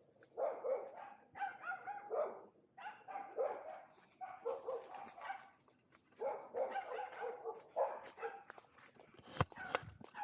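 A dog barking in several bouts of short barks, with a sharp click near the end.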